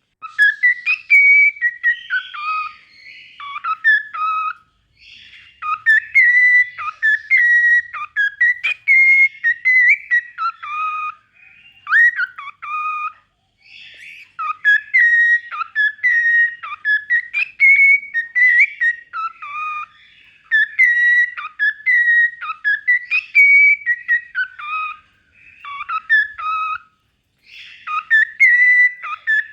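Cockatiel whistling its song: a run of pitched whistled notes and quick up-and-down glides in phrases, broken by short pauses.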